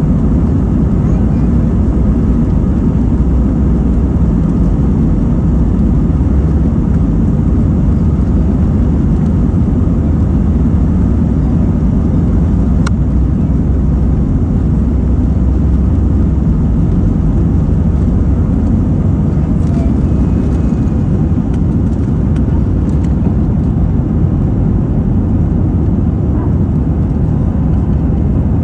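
Steady low rumble of an Airbus A320's engines and airflow heard from inside the passenger cabin, with a single click about halfway through.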